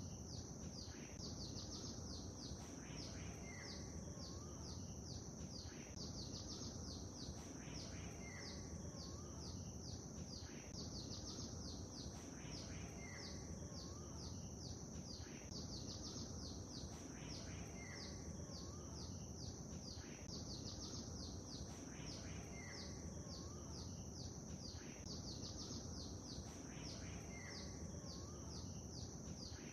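Lakeside ambience: a steady low wash of water noise under many small birds chirping in quick, high, downward-sliding notes. A short whistled call recurs every few seconds.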